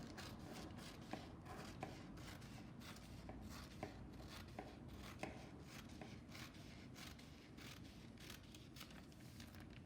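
Scissors cutting newspaper into strips: a run of faint, repeated snips, roughly two a second.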